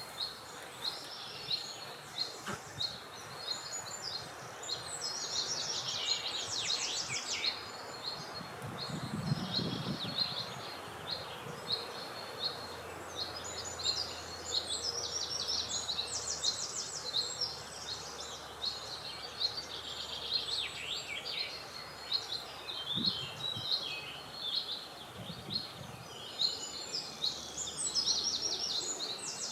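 Several songbirds chirping and trilling continuously over a steady haze of wind noise, with bursts of fast trills every several seconds.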